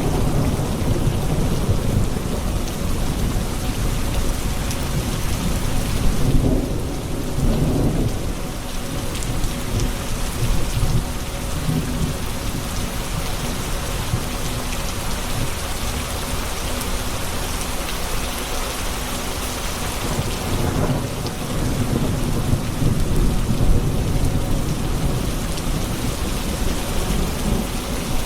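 Thunderstorm: steady heavy rain with rolling thunder rumbling underneath, swelling a few seconds in and again in the second half.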